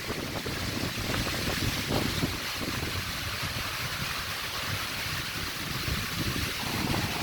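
Wind rushing through trees and grass in a steady hiss, with gusts buffeting the microphone in irregular low rumbles.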